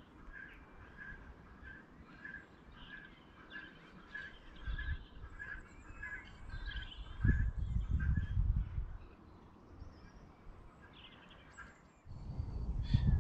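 Birdsong: one bird repeats a short, even note about every two-thirds of a second for the first half, and other birds chirp now and then. Bursts of low rumble come in a few times, the longest partway through and another starting near the end.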